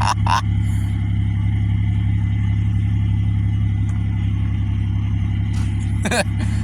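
1998 Buick LeSabre's 3.8-litre V6 idling steadily at the tailpipe, a constant low hum.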